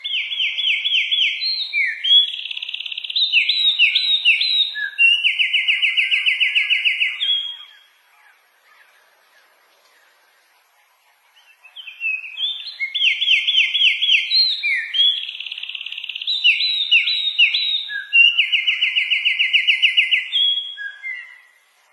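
A small songbird singing two long, loud song phrases made of fast runs of repeated notes and a steady trill, separated by a pause of about four seconds.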